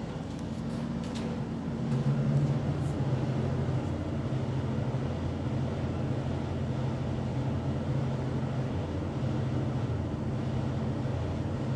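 Washing machine running with a steady low hum that gets louder about two seconds in and then holds steady.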